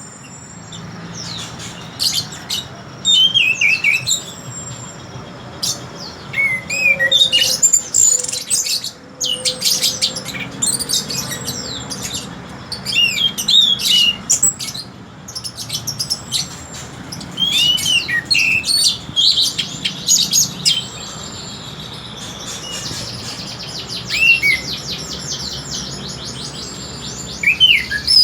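Orange-headed thrush singing: varied phrases of quick whistled notes with short pauses between them, and in the last part a long, fast run of rapidly repeated notes.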